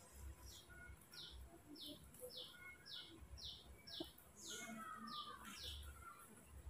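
A bird calling faintly: a run of about ten short, high notes, each falling in pitch, at roughly two a second.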